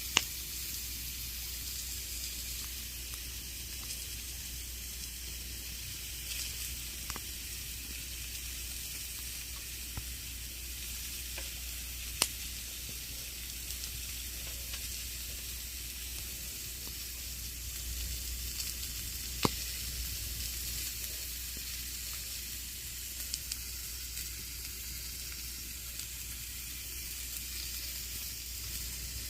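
Campfire burning: a steady crackling hiss with a low rumble underneath. A few sharp, louder pops stand out, right at the start, about 12 seconds in and about 19 seconds in.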